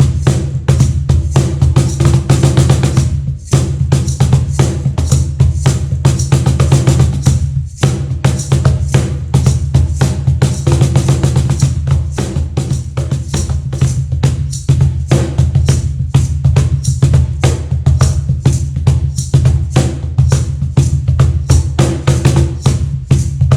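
A Meinl cajon played by hand in a fast, busy groove, mixing deep bass strokes with sharp slap tones, many strikes a second. There are short breaks in the playing a few seconds in and again near eight seconds.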